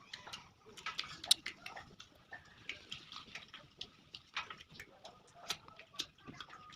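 Close-up eating sounds of rice with curry: wet chewing, lip smacks and mouth clicks at an irregular pace, with one sharper smack about a second in.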